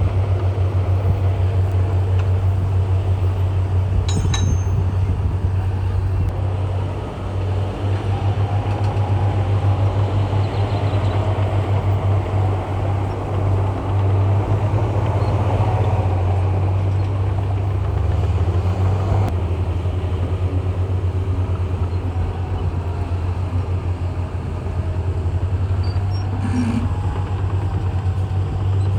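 Komatsu bulldozer's diesel engine running steadily with a deep drone, its pitch dipping briefly about two-thirds of the way through.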